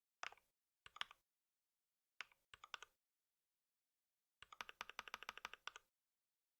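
Typing on a computer keyboard: a few short bursts of keystrokes, then a quicker run of about ten keys a second near the end, with dead silence between.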